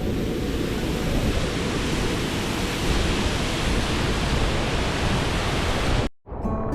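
Waterfall crashing down, a steady loud rush of water. It cuts off suddenly near the end, and music starts.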